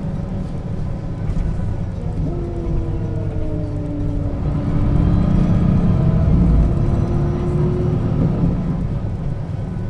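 The drivetrain of a 1996 Setra S 315 UL city bus running under way, heard from inside the bus: a heavy low engine rumble that swells for a couple of seconds past the middle, with a whine from the drivetrain that glides down in pitch, holds, then rises again.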